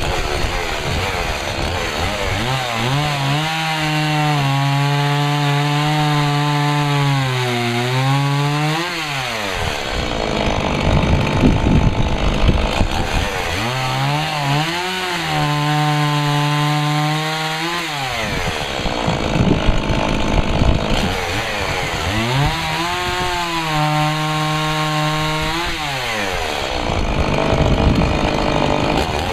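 Stihl MS 170 chainsaw's 30 cc two-stroke engine cutting branches for firewood. Three times the engine revs up and holds a high, steady note, then drops back, with rougher, noisier running in between.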